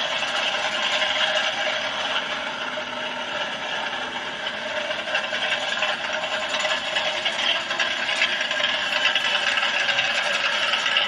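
Car engine running steadily with a rattle.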